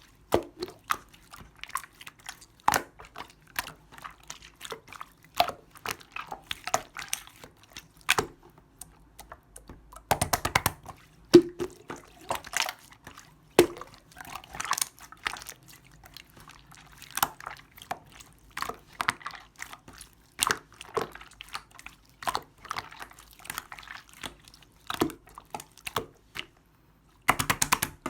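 Clear slime being squished and pressed by hand, with irregular wet clicks, crackles and pops of trapped air.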